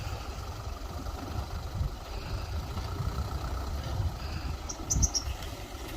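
Heavy diesel engine of earthmoving machinery running steadily with a low rumble. A few short clicks and a knock come about five seconds in.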